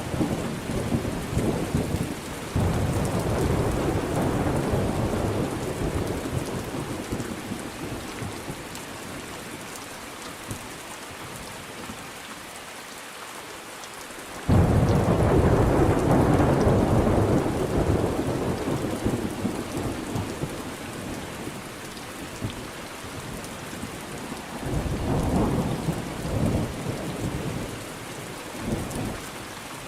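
Thunderstorm: steady heavy rain with rolls of thunder. Thunder rumbles break in suddenly about two seconds in and again about halfway through, each dying away over several seconds, with a weaker roll near the end.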